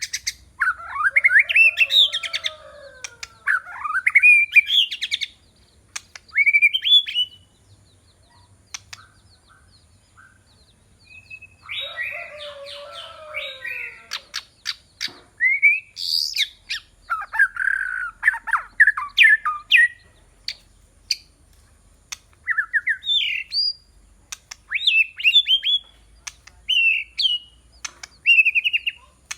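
White-rumped shama, a caged decoy bird, singing: varied whistled phrases that glide up and down, broken by sharp clicks, in bursts with short pauses and one longer silence of a few seconds about a third of the way in.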